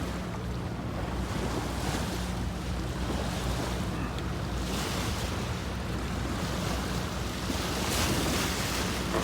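Wind and water rushing past a sailboat under way, with wind buffeting the microphone, over a steady low hum. The rush swells about five and again about eight seconds in.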